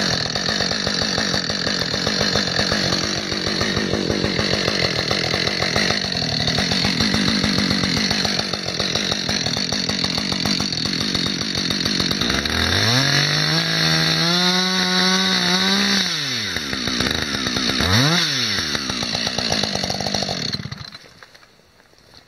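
Chainsaw cutting into a small tree under load for about twelve seconds. It then revs up freely and holds high for a few seconds before dropping back. Near the end it is blipped once and then stops.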